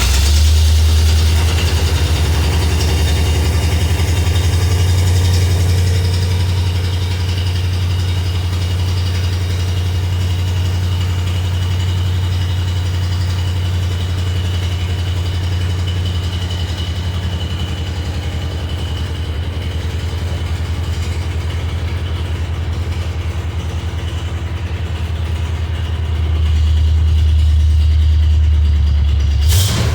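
1972 Jeep CJ5 engine idling steadily just after a cold start, running a little louder again near the end.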